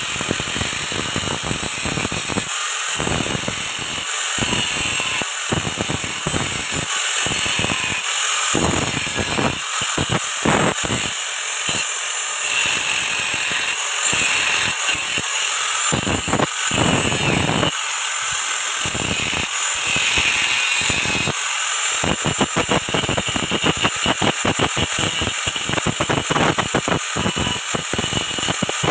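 Stick (arc) welding on galvanized steel pipe: a steady, loud crackling sizzle of the arc, full of irregular pops.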